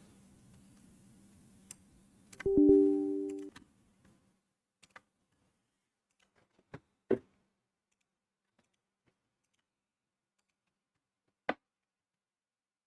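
A few sharp computer mouse clicks spread across several seconds, and about two and a half seconds in, a short computer alert chime: a few steady tones together that fade out over about a second.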